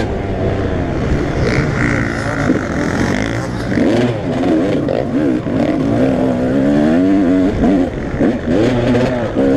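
Several motocross bikes' engines revving, with the pitch rising and falling as the riders open and close the throttle, the engine notes overlapping.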